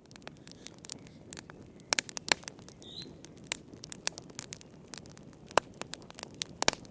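Wood fire crackling in a fireplace: irregular sharp pops and snaps over a soft low hiss, a few of them loud.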